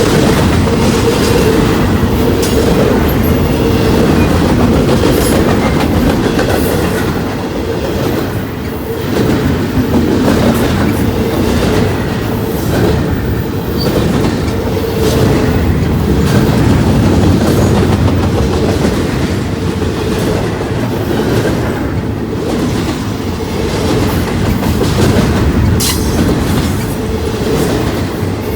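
Railroad cars rolling past, wheels clicking over the rail joints, with a steady ringing tone beneath the rumble.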